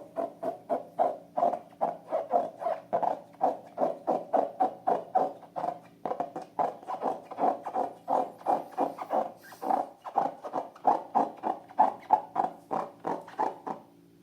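Slime being squeezed and poked by hand in a steady rhythm, about three squelches a second.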